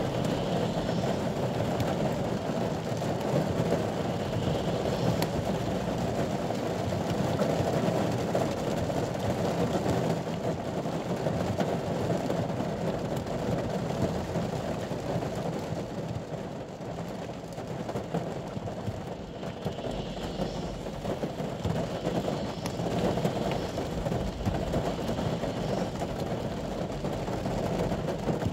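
Rain falling steadily on the roof of a ute, heard from inside the cabin as an even, dense patter.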